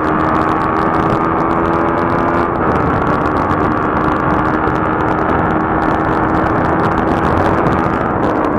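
Motorcycle engine running steadily at highway cruising speed, heard from the rider's own bike, its pitch shifting slightly about two and a half seconds in.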